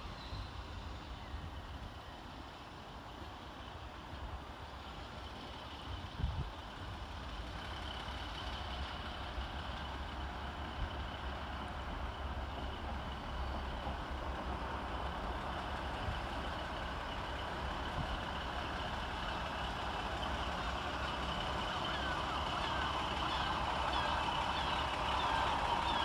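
Class 153 single-car diesel railcar arriving into the station, its engine and wheel noise growing steadily louder. A thump comes about six seconds in, and high steady tones from the wheels or brakes strengthen near the end.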